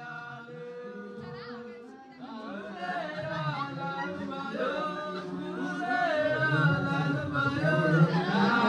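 Singing with music: a long held sung note, then a livelier vocal passage that grows louder from about two seconds in.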